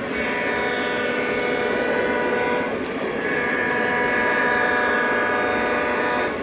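O scale model locomotive's sound system blowing two long horn blasts, the second cutting off sharply near the end.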